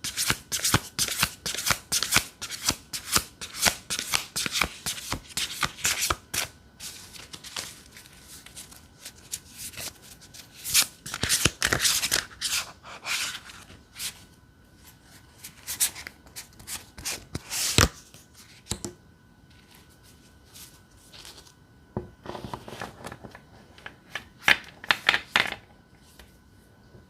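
A deck of tarot cards being shuffled: a fast, dense run of crisp card strokes for about the first six seconds, then looser shuffling and handling in spells. There is a single sharp snap of the cards near the middle and another short burst of shuffling late on.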